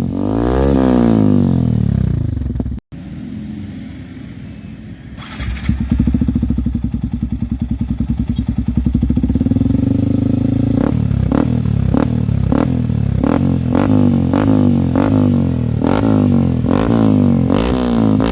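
Yamaha WR155's single-cylinder four-stroke engine running through its exhaust. It is revved at first, then idles steadily after an abrupt cut. From about 11 seconds in it is blipped with short, quick throttle revs, roughly one to two a second.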